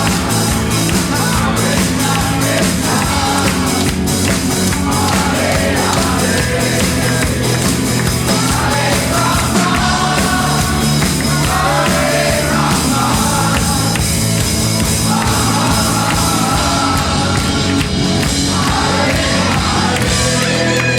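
Live band music with a singer, loud and continuous, in a rock style.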